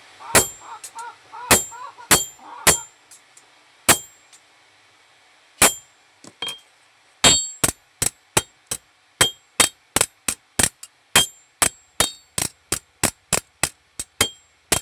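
A hammer striking metal with a ringing clang, a few separate blows at first and then a steady run of about three taps a second from about halfway through.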